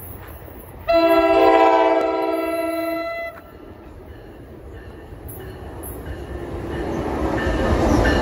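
Electric locomotive's multi-note air horn sounding one loud blast of about two seconds, starting about a second in, then the rumble of the approaching train growing steadily louder.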